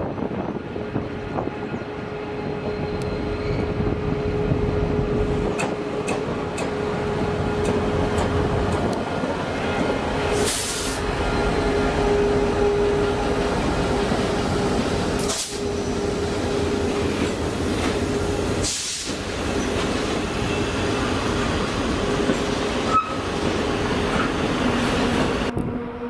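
A train running past on the track: a steady, loud rumble of wheels on rail with a continuous hum, broken by three brief sharp noises about ten, fifteen and nineteen seconds in.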